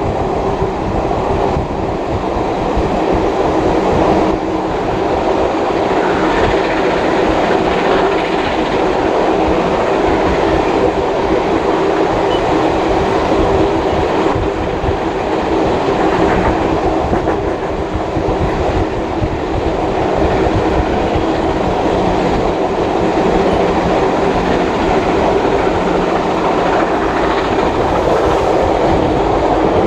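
Steady rumble of a heritage passenger carriage's wheels on the rails, with clickety-clack over the rail joints, heard from aboard the train.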